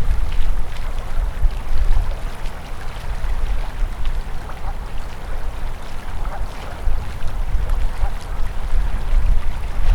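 Winter river flowing and gurgling steadily, with an uneven low rumble of wind buffeting the microphone.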